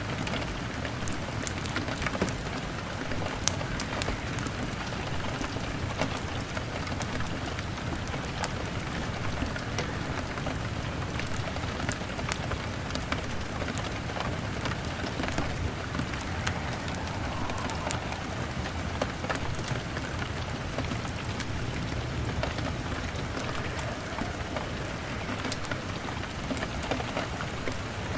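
Steady rain falling on window glass, mixed with the scattered pops and crackles of a wood fire.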